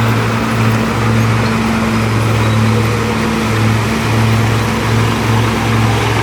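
Diesel engine of heavy earthmoving equipment running steadily at a low drone, with small wavering dips in the note and a broad haze of machine noise over it.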